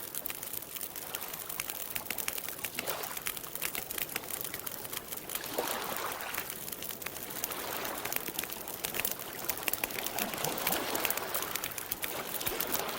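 Campfire burning with a steady, dense crackle of small sharp pops. Over it come a few soft swells of lake water lapping at the shore.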